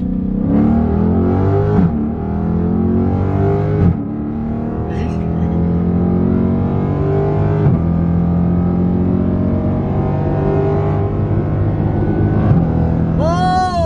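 Dodge Challenger Scat Pack's 392 HEMI V8 at full throttle through an exhaust with the mid muffler and resonator deleted. The engine note climbs through the revs and drops sharply four times as the automatic gearbox upshifts on its own.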